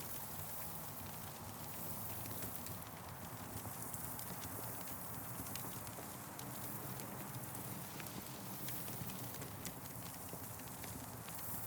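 Campfire crackling: irregular sharp pops and snaps over a steady rushing hiss.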